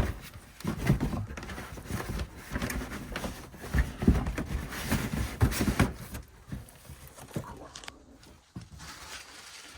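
Irregular knocks, clatter and rustling from items being handled, busy for about six seconds and then quieter with a few faint clicks.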